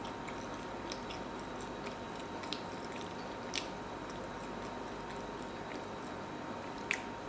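Close-miked chewing, a few faint sharp mouth clicks over a steady background hiss with a faint high hum.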